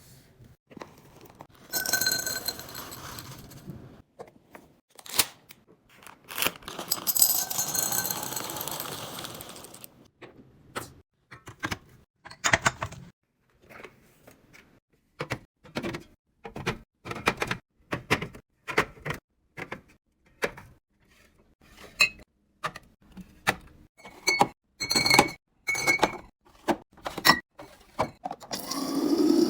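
Kitchen items being handled while restocking: a long string of sharp clicks, taps and knocks as containers and packages are picked up and set down, with two longer rustling stretches, about 2 and 7 seconds in. Near the end water begins running into a container, its pitch rising as it fills.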